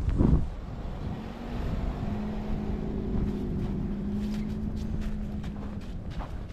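A motor vehicle engine hums steadily from about a second and a half in, fading out near the end, over wind rumble on the microphone.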